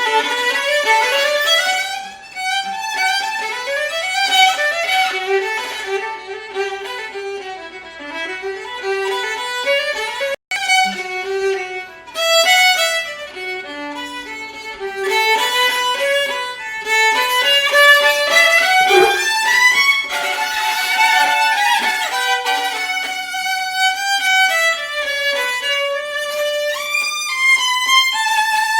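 Solo violin playing a melody in quick runs of notes, with a very brief dropout in the sound about ten seconds in.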